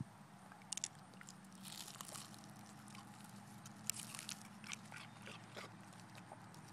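A dog biting and chewing a frozen freezer pop: faint, scattered crunches and clicks of teeth on ice.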